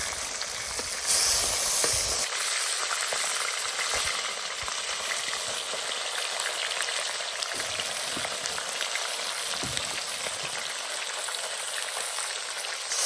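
Thick pieces of fish pan-frying in plenty of hot oil: a steady sizzle, with a louder flare of spitting about a second in.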